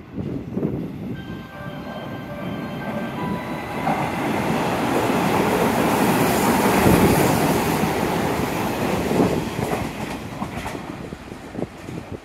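Orange-and-cream Hanshin Electric Railway train running past a station platform: a few steady high tones at first, then the clatter of wheels on rails builds to a peak about halfway through and fades away.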